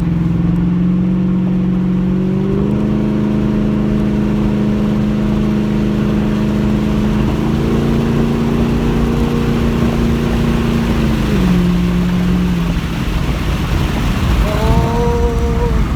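2007 Ford Mustang GT's 4.6-litre V8 pulling at high speed from inside the cabin with the windows down. The engine note steps up about three seconds in, climbs slowly, then drops back near the end as it eases off, under steady wind and road noise. A brief higher whine rises and falls just before the end.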